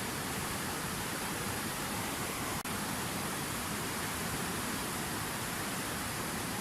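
Water falling steadily in a fountain waterfall, an even rushing hiss that holds at one level, broken by a momentary dropout about two and a half seconds in.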